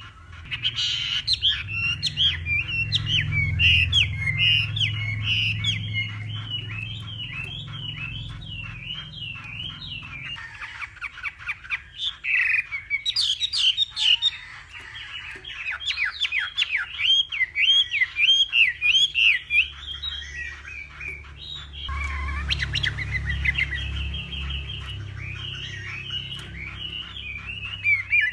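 Chinese hwamei singing a long, varied song of fast repeated whistled phrases that sweep up and down in pitch. A low rumble sits underneath near the start and again about four-fifths of the way through.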